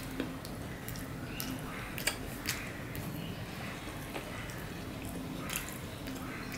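Close-miked chewing of chirar polao, spiced flattened rice eaten by hand, with a handful of sharp wet clicks scattered through it over a steady low background hum.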